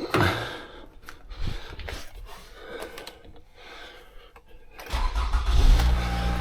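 A few faint clicks and clatters, then a car engine cranks and starts about five seconds in and settles into a steady idle.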